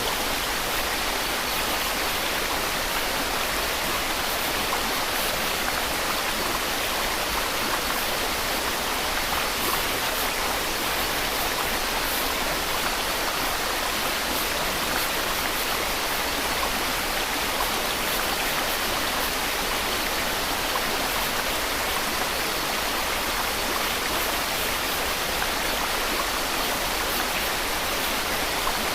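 Steady white-noise hiss, even and unchanging, with no breaks, tones or separate events; it is brightest in the upper range and thin in the low end.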